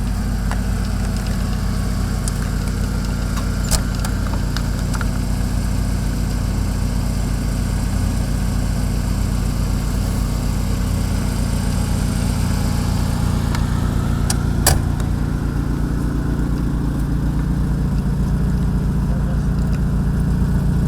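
A car engine running steadily at an even pitch, with two brief sharp clicks, one early on and one about two-thirds of the way through.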